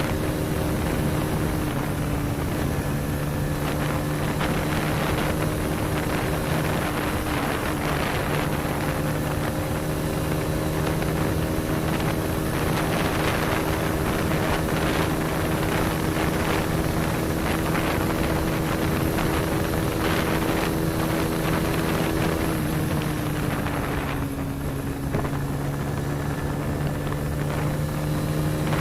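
Motorcycle engine running at a steady cruising speed, with wind buffeting the microphone. The engine note dips slightly near the end.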